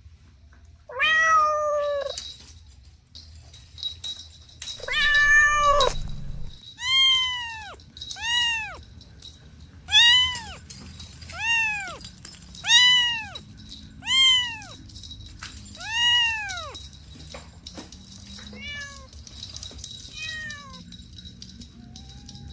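Kittens meowing: two longer calls, then a run of about eight short meows that rise and fall in pitch, about one every second and a half, ending with two fainter meows.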